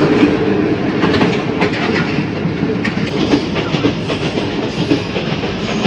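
Passenger train running along the track: steady rumble and hiss of the moving carriage with wheels clacking over the rails.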